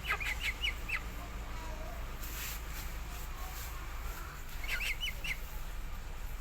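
A bird calling in two quick runs of five or six short, sharp notes, about four and a half seconds apart.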